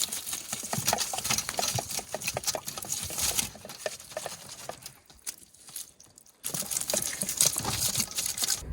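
Irregular patter of many small clicks and taps from a freshly hauled crab trap holding live Dungeness crabs, dying away briefly about five seconds in.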